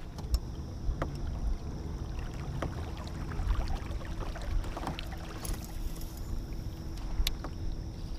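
Kayak on the water: a steady low rumble of water against the hull, with scattered light knocks and clicks and a faint steady hum.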